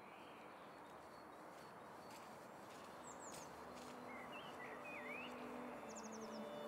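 Faint outdoor ambience with birds calling over a steady hiss: a few short chirps, a warbling phrase about four seconds in, and a quick trill near the end. Low held notes of music begin to come in during the second half.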